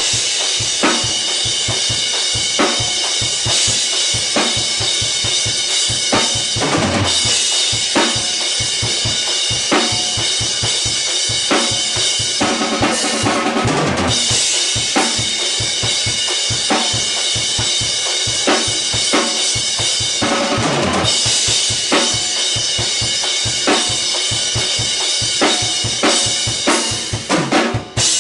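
Acoustic drum kit played live in a rock groove: steady kick and snare strokes under a continuous cymbal wash. Roughly every seven seconds a fill comes down the toms and lands on a crash cymbal.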